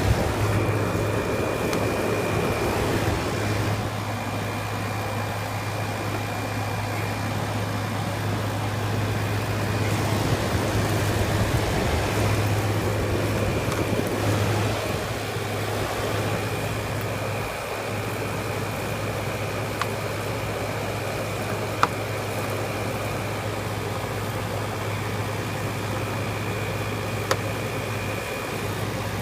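Window air conditioner running: the steady hum of its compressor and fan, with a faint high whine that comes and goes. A few sharp clicks late on.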